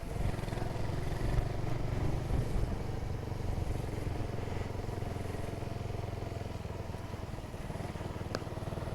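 Small motorcycle engine running steadily under the rider as the bike is ridden along, with a faint click near the end.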